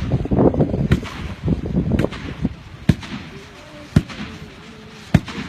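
Fireworks going off: six sharp bangs about a second apart, with crackling and rumble between them.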